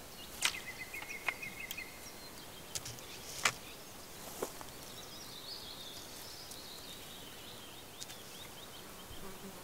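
Birds calling over a faint steady outdoor background: a run of short chirps in the first two seconds and a warbling song later on. Several sharp clicks or snaps come in the first few seconds.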